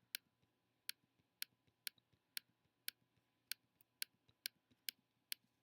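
Computer mouse button clicking repeatedly, single short clicks about two a second with a few fainter ones in between.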